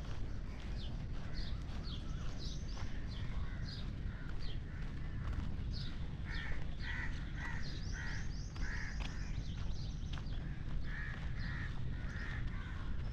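Birds calling: short high chirps throughout, and from about halfway a run of harsher repeated calls, roughly two a second, over a steady low rumble.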